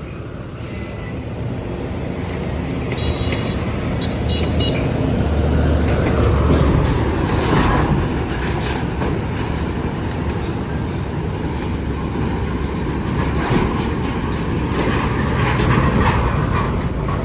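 Heavy container truck's diesel engine running and rumbling past close by amid road traffic, growing louder to a peak about six seconds in. Brief high squeals sound around three to four seconds in.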